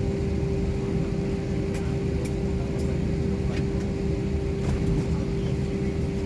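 Airliner cabin noise in flight: a steady low rumble from the engines and airflow, with a constant hum and a few faint clicks.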